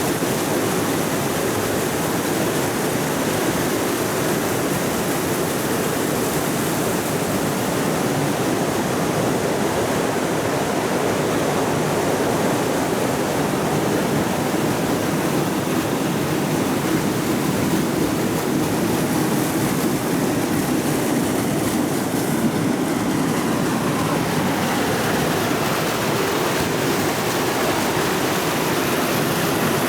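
Steady rush of a forest creek running over rocks. A faint tone falls slowly in pitch a little past the middle.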